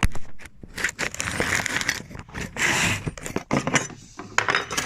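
Handling noise of a phone being moved and propped up: irregular rustling, scraping and clicking, with a longer rustle around the middle.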